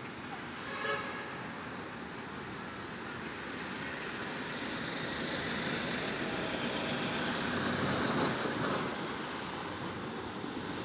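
Road traffic: a passing vehicle's tyre and engine noise swelling to a peak about eight seconds in, then easing off. A brief high-pitched sound cuts in just under a second in.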